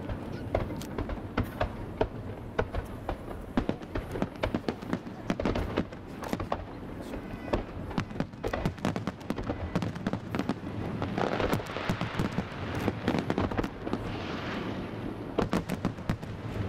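Fireworks display: a continuous run of bangs and crackles, with a thicker crackling hiss from about eleven to fifteen seconds in.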